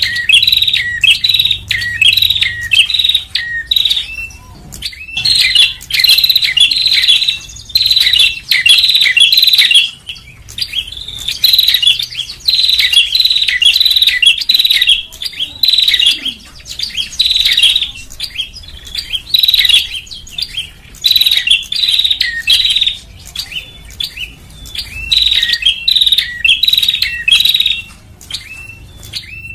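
Prinia (prenjak) song played as a bird-trapping lure recording: loud runs of rapid, high chirping notes in phrases of one to three seconds, with short pauses between them.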